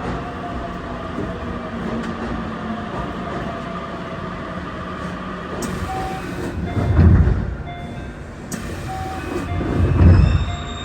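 Keio Inokashira Line electric commuter train running at speed, heard from on board: a steady rumble of wheels on the rails with faint motor tones, swelling into two louder, deeper rumbles about seven and ten seconds in.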